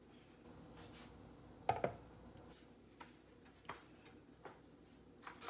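A few scattered, irregular light clicks and knocks, the loudest a sharp pair close together a little under two seconds in, over a faint steady hum.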